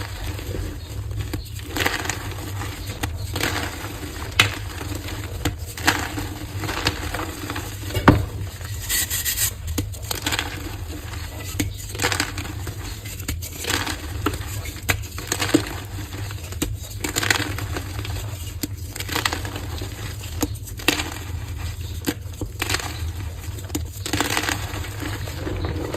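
Dyed gym chalk hearts being crushed, a steady run of crisp crunches and cracks, about one or two a second, over a low steady hum.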